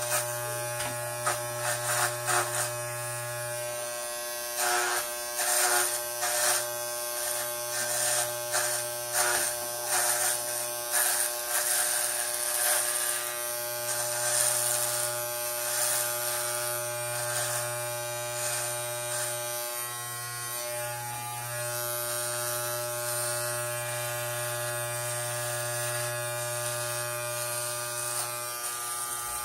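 Electric hair clippers buzzing steadily while shaving hair close to the scalp, with irregular crackling as the blades cut through the hair. The crackling thins out about two thirds of the way through, leaving mostly the steady motor buzz.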